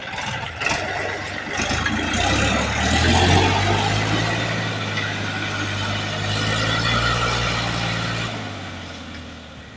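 Tractor diesel engine revving up and held at steady high revs under load, then easing off near the end.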